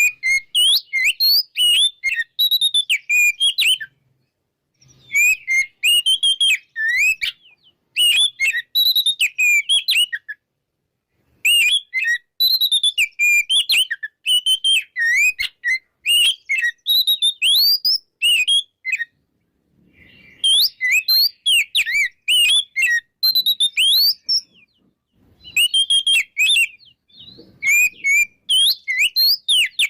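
Oriental magpie-robin (kacer) singing a loud, full song of rapid, varied whistles and chirps, delivered in runs of a few seconds separated by short pauses.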